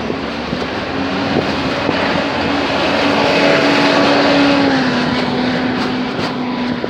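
A motor vehicle passing by: a steady engine tone under road noise that swells to its loudest about three to four seconds in, then drops a little in pitch and fades as it goes past.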